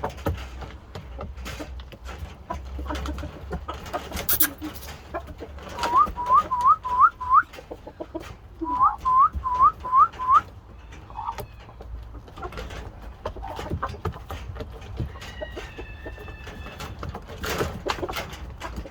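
Shamo gamefowl calling: two quick runs of five short rising notes, with scattered light clicks and taps. Near the end comes a steady whistle-like tone lasting about two seconds.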